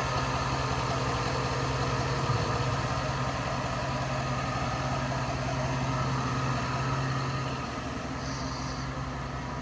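A 2011 Chevrolet Silverado's 5.3-liter V8 idling smoothly and steadily, so quiet it can barely be heard: the running note of a healthy low-mileage engine.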